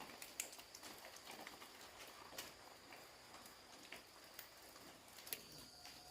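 Quiet, with scattered faint clicks and light taps at irregular intervals over a steady, faint high-pitched whine.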